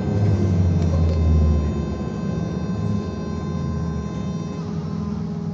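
BKM-221 trolleybus in motion, heard from inside the cabin: low road rumble with steady electric tones from the drive. The rumble is strongest for about the first two seconds, then eases.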